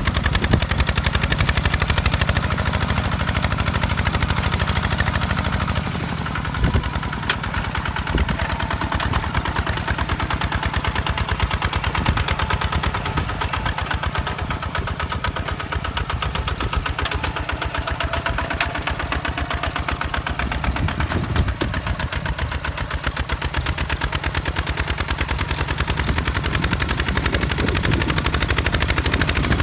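Single-cylinder diesel engine of a two-wheel walk-behind tractor running steadily under work, its exhaust chugging in a rapid, even beat.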